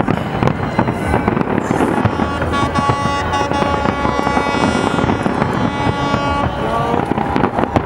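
Fireworks display going off continuously: dense crackling and popping of many shell bursts. A long, steady pitched tone sounds over it from about two seconds in until about six and a half.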